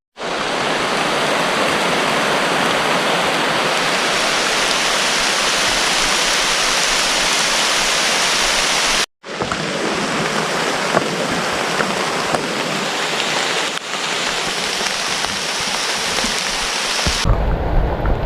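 Heavy tropical rain pouring down in forest, a loud steady hiss, cut off briefly about nine seconds in. Near the end the hiss thins and a low rumble comes in.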